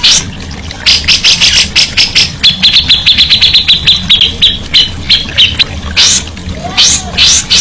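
Songbird singing fast runs of short, sharp repeated notes, several a second, then a steadier series of higher chips that slows toward the middle, with a short pause about six seconds in before the rapid notes resume.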